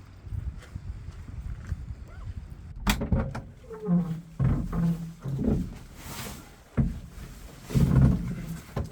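A Border Collie whining and grumbling in short, irregular bursts among rustles and bumps of gear. There is a sharp knock about three seconds in.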